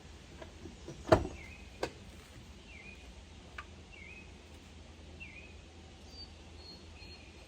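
A bird calls repeatedly outdoors, a short dipping chirp about every second and a bit, with a few higher chirps near the end, over a steady low rumble. A sharp knock comes about a second in and a lighter one shortly after.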